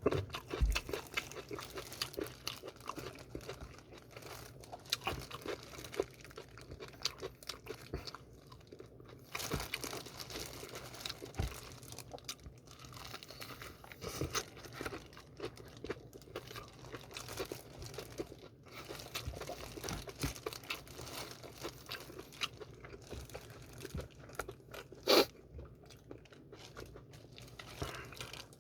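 Close-up chewing and crunching of crispy fried chicken, BHC Puringkle, with irregular crackles and some crinkling. About 25 seconds in there is one louder sharp knock.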